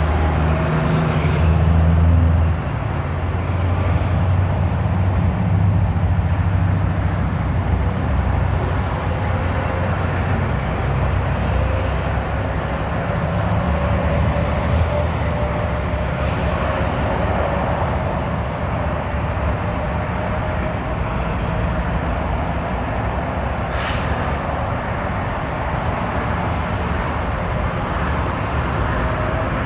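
Heavy truck traffic: steady engine and road noise, with a low engine drone that is strongest in the first ten seconds, a faint whine slowly rising in pitch, and a single sharp click about 24 seconds in.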